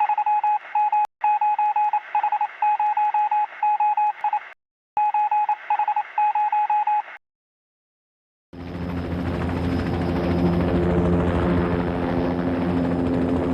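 An electronic beep tone, sounding like a radio or telephone line, keys on and off in short and longer beeps for about seven seconds. After a brief silence, a steady loud rumble with a low hum begins.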